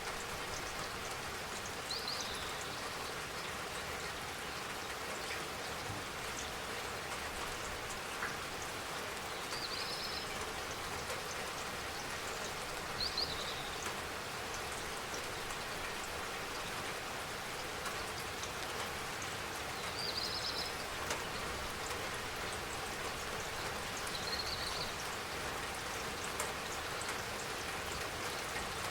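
Steady spring rain falling, an even hiss with drops tapping on surfaces. About five short, high chirps come through at intervals of several seconds.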